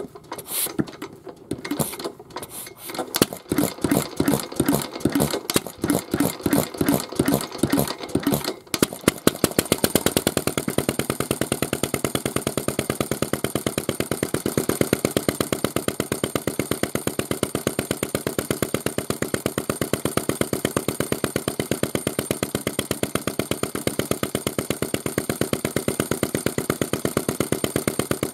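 Mitsubishi J1-type single-cylinder kerosene stationary engine being started. It turns over with separate beats that come faster for about eight seconds, then catches and runs steadily with a rapid, even beat.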